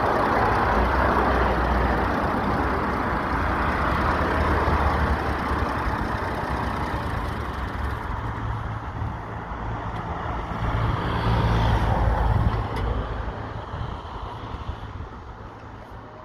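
Heavy vehicles driving past with a low engine drone and road noise. The sound swells at the start and again about twelve seconds in, then fades away near the end.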